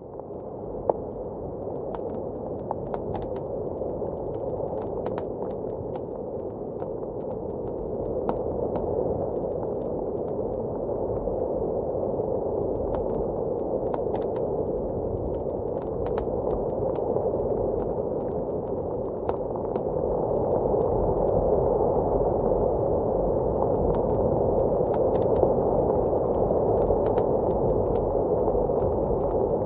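Fireplace crackling, with scattered sharp pops and snaps, over a steady, muffled howl of blizzard wind. The mix swells back in during the first second, with one louder pop about a second in.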